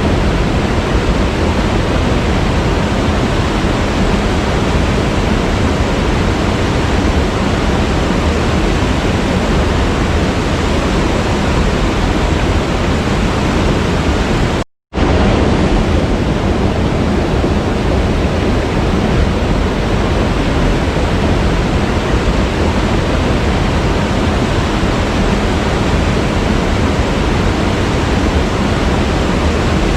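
Waterfall: a steady, even rush of falling water. It cuts out completely for a split second about halfway through, then comes back unchanged.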